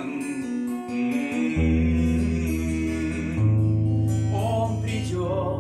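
Acoustic guitar accompaniment to a song, in an instrumental gap between sung lines, over sustained low bass notes that shift twice.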